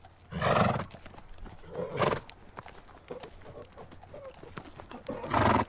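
Horse making three loud, breathy bursts of sound, about half a second in, about two seconds in and near the end, with faint scattered clicks between them.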